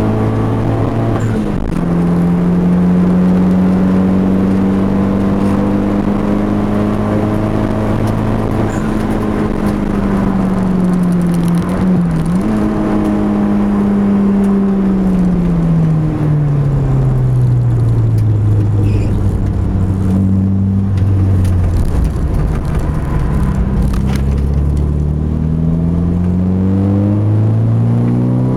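Mitsubishi Eclipse GSX's turbocharged four-cylinder engine heard from inside the cabin, running hard at high revs. The revs dip quickly just over a second in and again around the middle, fall slowly for several seconds, then climb again near the end.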